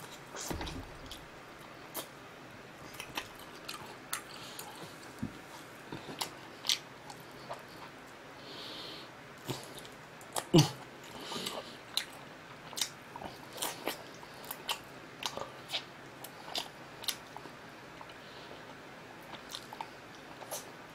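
Close-miked chewing and biting of grilled meat eaten by hand, with irregular sharp wet mouth clicks and smacks, one louder smack about halfway through.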